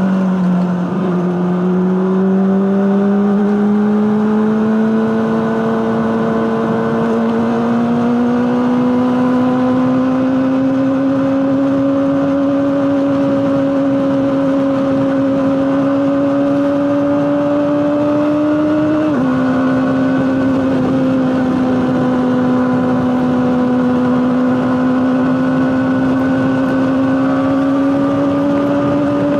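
Honda CBR600RR's inline-four engine through an Akrapovic exhaust, running steadily at mid revs. Its pitch falls briefly at the start, then climbs slowly, and drops suddenly about nineteen seconds in before holding again.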